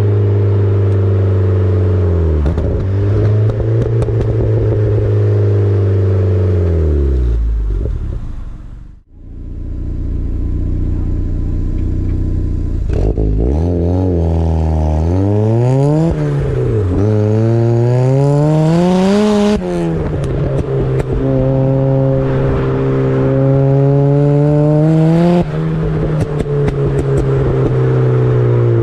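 Turbocharged Mazda MX-5 engine pulling hard under full throttle, the revs climbing and then dropping abruptly at each gear change. The engine note falls away to almost nothing about nine seconds in, then picks up again.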